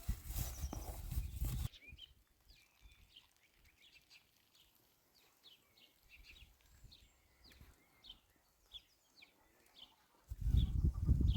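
Short high bird chirps repeating two or three times a second through a quiet stretch, framed by a loud rushing, rumbling noise that cuts off sharply about two seconds in and returns suddenly near the end.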